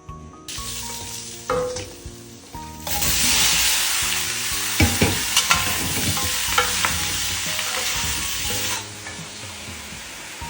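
Food sizzling loudly in a hot pan while being stirred with a spatula, which knocks against the pan several times in the middle. The sizzle swells about three seconds in and dies down near the end. Background music plays underneath.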